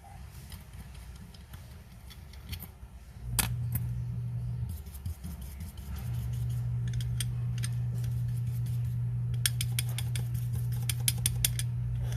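Small metal watch parts and tools clicking and tapping, in a quick cluster near the end. A steady low electric hum comes in about three seconds in, stops briefly and resumes.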